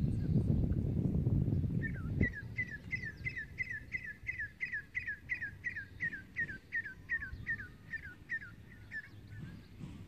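A bird singing a long run of identical down-slurred notes, about three a second, lasting some seven seconds. Over the first two seconds a low rumble is heard, ending in a single knock.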